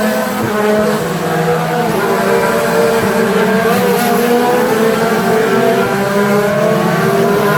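A field of IndyCar race cars running at racing speed, several engine notes at different pitches overlapping and holding fairly steady as the pack goes by.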